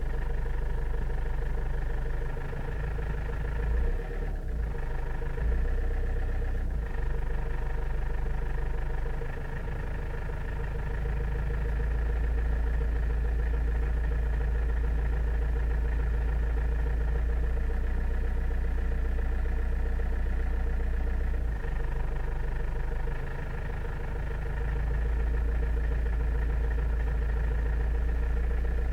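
First-generation Toyota Avensis engine running at low rpm: a steady drone with a deep rumble that eases briefly a few times. This is the strange low-rpm engine noise the owner is asking about.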